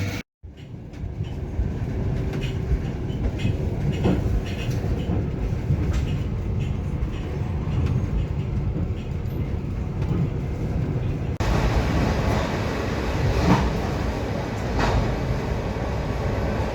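Passenger train carriage rolling along the track: a steady low rumble with a few scattered knocks of the wheels over rail joints. It drops out briefly just after the start and jumps louder about 11 seconds in.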